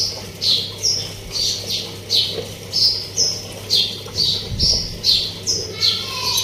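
A small bird chirping over and over, about two short high, falling chirps a second.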